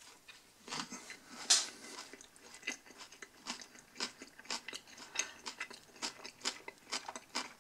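A person biting into and chewing a Subway spicy Italian sub on Italian bread: a run of crunching chews, two or three a second, with the loudest crunch about one and a half seconds in.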